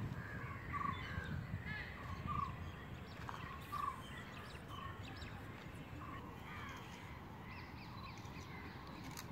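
Birds calling outdoors: a series of short calls repeated roughly once a second, fading after the first few seconds, with fainter higher chirps in the second half.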